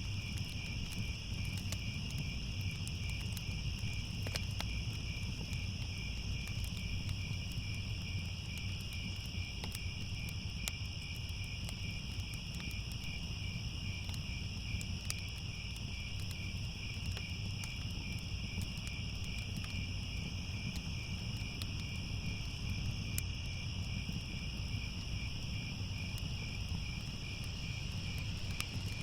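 Crickets chirping in a steady, continuous chorus over a low rumble, with scattered faint crackles like a wood fire.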